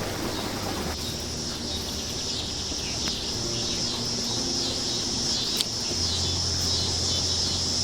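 Insects buzzing in a steady high-pitched chorus. Soft background music with long low notes comes in about a second in.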